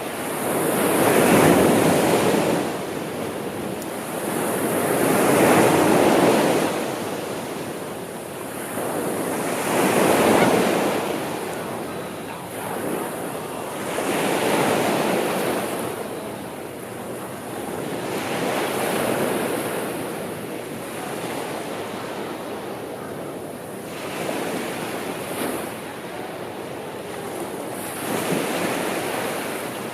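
Sea waves washing onto the shore, each swell rising and falling away about every four to five seconds.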